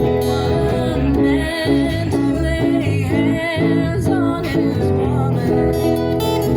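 Live acoustic music: acoustic guitar strumming chords, with a wordless melody line wavering in pitch above it through the middle.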